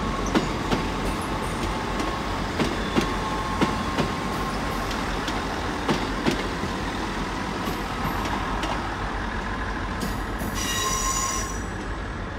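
CrossCountry HST with Class 43 diesel power cars pulling into the platform: a steady rumble with repeated sharp clicks of the wheels over rail joints and points. A brief high-pitched metallic squeal comes about ten seconds in as it slows.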